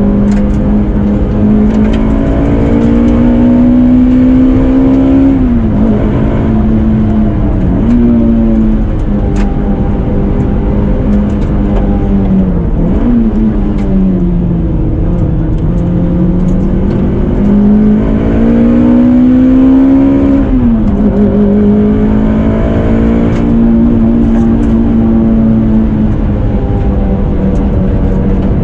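Toyota Celica ZZT231's 2ZZ-GE 1.8-litre inline-four engine running loudly. Its pitch climbs slowly and then drops sharply twice, about 6 seconds and 21 seconds in, with smaller dips between and long steady stretches.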